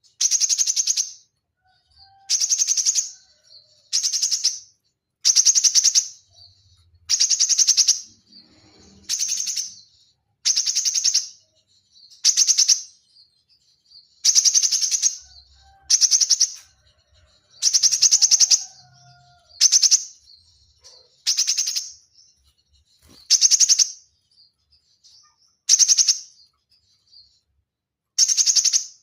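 Konin (kolibri ninja sunbird) singing in dense, rapid-fire 'tembakan' bursts: high, fast trills of about a second each, repeated roughly every one and a half to two seconds, some sixteen times.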